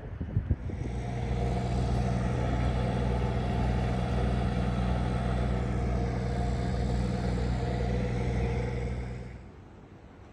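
A vehicle engine running at a steady pitch, fading out near the end.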